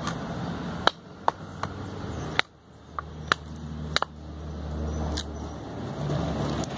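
About ten sharp, irregular knocks of a baton striking the spine of a full-convex bushcraft knife as it is driven into a knotted piece of wood to split it, over a low steady background rumble.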